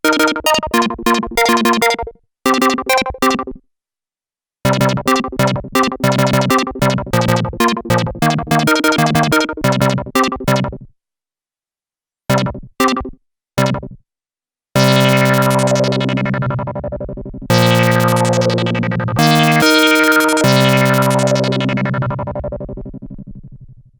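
Korg monologue monophonic analog synthesizer, recorded direct: quick runs of short plucky notes for about eleven seconds, a few stray short notes, then from about fifteen seconds three long held low notes, each bright at its start and mellowing as it sustains, fading out at the end.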